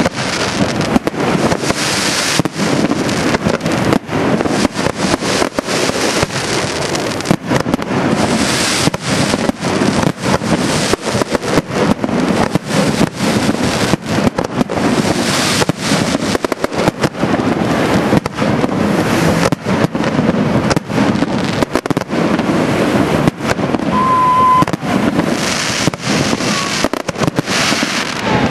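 Aerial fireworks display: a continuous barrage of shell bursts, many sharp bangs in quick succession with no letup.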